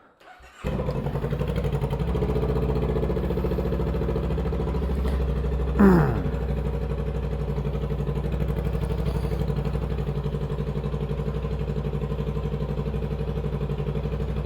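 Honda Rebel 500's parallel-twin engine idling steadily; its sound cuts in abruptly about half a second in. About six seconds in there is one brief, louder sound that slides down in pitch.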